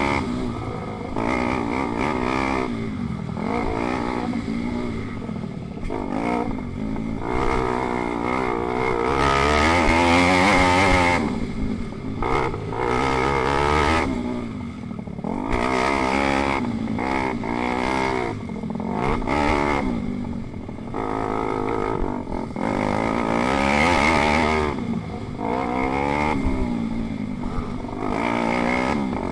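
Small single-cylinder pit bike engines racing, revving up and dropping back over and over as they accelerate and ease off, with their pitch rising and falling throughout.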